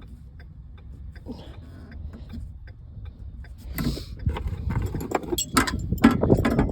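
Hand tools clicking and clinking against metal as an Allen wrench works at the screws of a cover. The sharp metallic clicks come thick and fast in the second half, over a low steady rumble.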